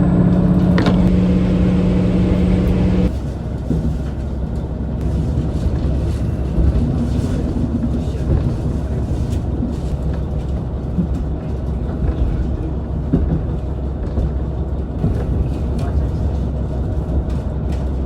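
Diesel railcar running: for about the first three seconds its engine drones under power with a steady pitched note, which then drops away abruptly, leaving the steady low rumble of the train rolling on the rails with occasional clicks.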